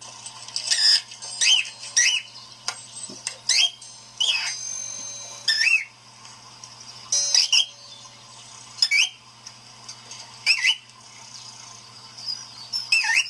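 A cockatiel calling: a dozen or so short, shrill chirps and whistles that sweep up and down in pitch, at uneven intervals, over a steady low hum.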